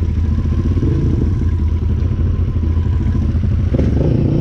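Can-Am 1000's V-twin engine running steadily at low speed, with no clear revving.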